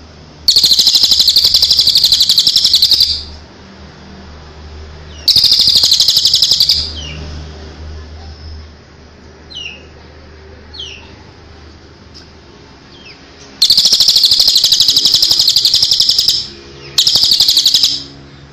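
Small songbird singing in four loud bursts of a rapid, harsh, buzzy trill, each lasting about two seconds, with a few faint short falling whistles in the gaps.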